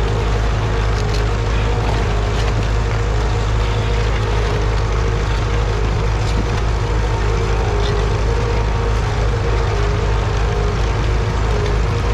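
A motor running steadily at constant speed: a loud, unchanging drone with a low hum and a held tone.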